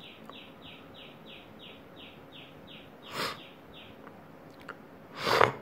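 A bird chirping: a short falling note repeated evenly about three times a second, which stops about four seconds in. Two short breathy rushes of noise also come through, the louder one near the end.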